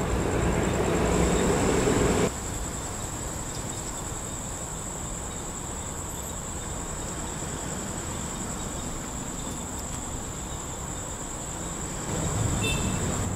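Train rumbling for the first two seconds, cut off abruptly. Then insects chirring steadily in a high, pulsing whine over faint background rumble. Near the end a low engine drone starts to grow: the diesel railcar approaching.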